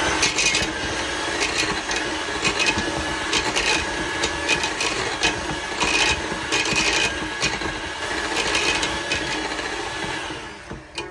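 Electric mixer whipping softened butter: a steady motor whine with irregular clicks throughout, stopping near the end.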